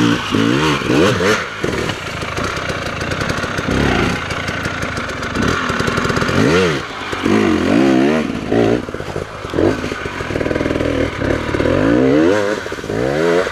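Off-road dirt bike engine revving up and down again and again as the rider works the throttle climbing a steep, loose rocky slope.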